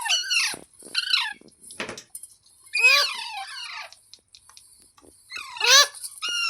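Green ringneck parrot giving a series of short, high, arching squawks, about five calls with pauses between, the loudest about three seconds in.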